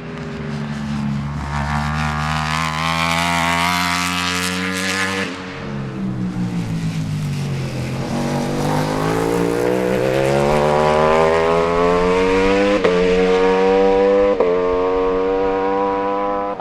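Ducati Panigale V4 superbike's V4 engine pulling hard with rising pitch, backing off about five seconds in as the pitch falls, then accelerating again through two quick upshifts near the end.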